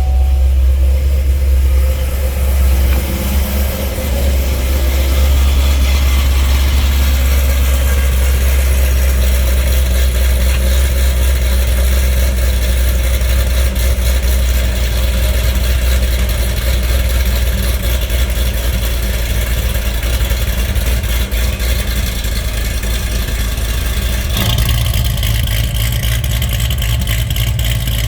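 2008 Corvette Z06's 7.0-litre LS7 V8 idling steadily after a cold start, its note changing abruptly about 24 seconds in.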